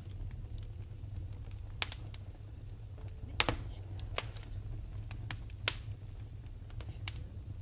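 Wood fire crackling in a fireplace: irregular sharp snaps and pops over a steady low rumble. The loudest pops come about two, three and a half and six seconds in.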